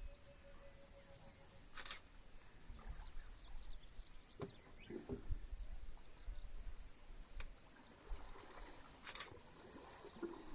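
Faint outdoor wildlife sounds: scattered short bird chirps and calls, with a rapid high trill in the last few seconds. There are a few sharp knocks and a low rumble underneath.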